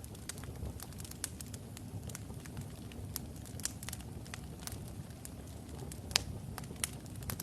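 Wood fire burning in a fireplace: a low steady rumble of the flames with irregular sharp crackles and pops from the burning logs, the loudest pop about six seconds in.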